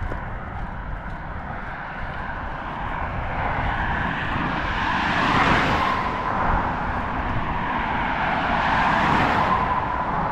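Two cars passing by on a road, one after the other, the noise swelling to a peak about five seconds in and again near nine seconds.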